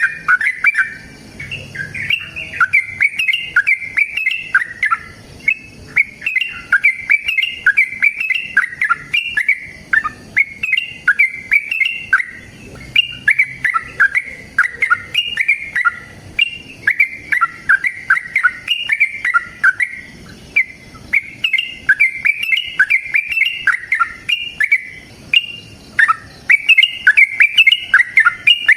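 Yellow-vented bulbul (trucukan) singing in long, rapid runs of bubbly chirping notes, with a few short pauses between runs.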